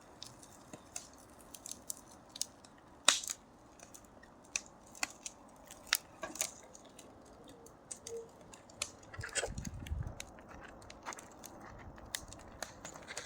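Fire crackling slowly: sparse, irregular pops and snaps, the loudest about three seconds in. A brief low rumble comes about ten seconds in.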